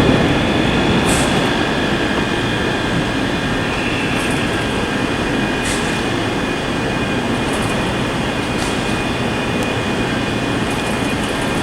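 ScotRail Class 385 electric multiple unit in the station: a steady rumble and hum with a few constant high-pitched whine tones over it.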